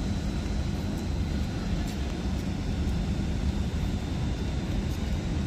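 Hitachi Class 807 electric multiple unit pulling out: a steady low rumble of the train, with a faint steady high whine over it.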